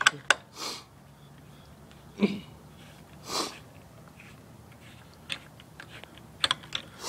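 Scattered light clicks and knocks from small hard objects being handled, with a cluster of quick clicks near the end and a few short rustles in between.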